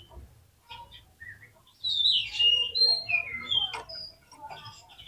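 Oriental magpie-robin (kacer) singing, a varied run of clear whistled notes and slides that is loudest from about two seconds in, after a few soft calls.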